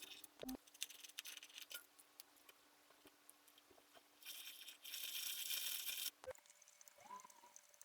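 Quiet hand-tool work on wood: scattered light taps and clicks, then about two seconds of brisk scraping from about four seconds in, the loudest part.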